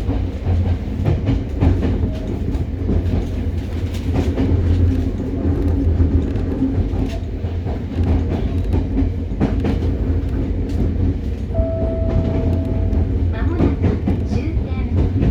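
Cabin noise of a Hokuriku Railroad 03 series unpowered trailer car running, so no traction-motor whine is heard: a steady low rumble of wheels on rail with scattered rail-joint clicks. A short steady whine sounds for about a second and a half, about twelve seconds in.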